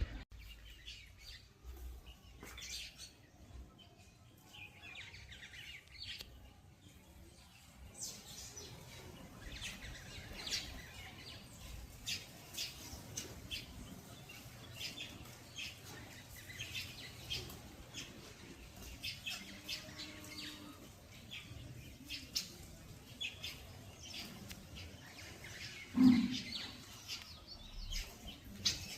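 Many small birds chirping: short, high calls come in quick, overlapping bursts throughout. One brief, much louder low thump sounds near the end.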